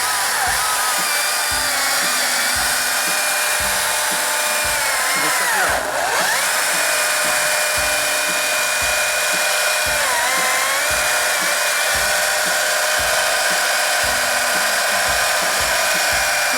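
Battery-powered electric chainsaw running steadily with a high motor whine. Its pitch dips about five seconds in, again around ten seconds, and near the end, as the chain bites into the wood, then recovers.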